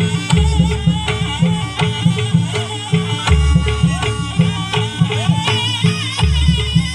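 Jaranan gamelan ensemble playing: a fast, even pulse of drum and metal strokes under a wavering melody, with a deep gong stroke about every three seconds.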